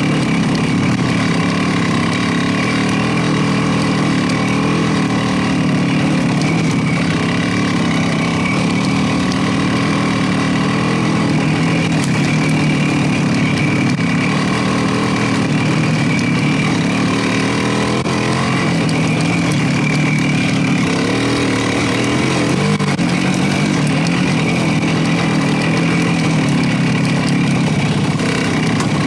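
Motorcycle engine running steadily at an even pitch, with a brief wavering change in pitch a little past two-thirds of the way through.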